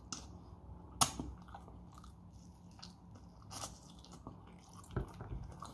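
A person biting and chewing food close to the microphone, with a sharp bite about a second in and another near the end, and softer chewing between them.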